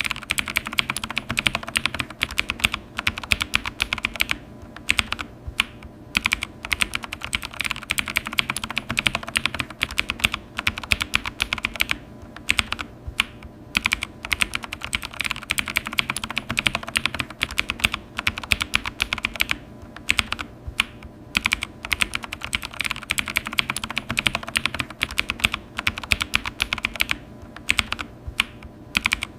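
Typing on a computer keyboard: a steady run of fast key clicks with brief pauses between bursts.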